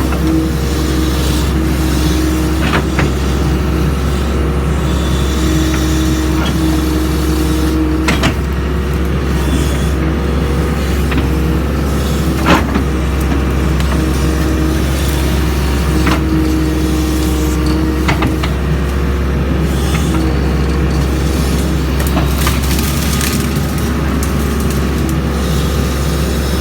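Doosan DX140 excavator's diesel engine running steadily under work, with a few sharp knocks, the loudest about halfway through.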